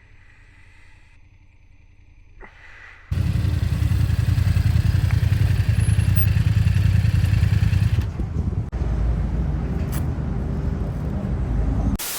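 BMW F800GS parallel-twin engine running underway with wind noise, coming in abruptly and loud about three seconds in after a quieter start. A short burst of hiss right at the end.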